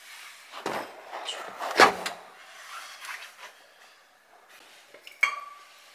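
A few knocks and clunks of things being handled in a kitchen, the loudest about two seconds in, with a sharp click and a brief ring near the end.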